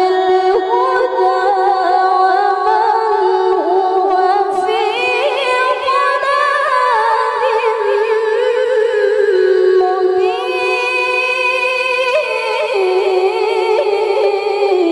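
A woman reciting the Quran in tilawah style, holding one long, ornamented melismatic phrase in a high, clear voice without instruments. The pitch climbs in steps a few seconds in, with quick trills, and falls back to a lower held note near the end.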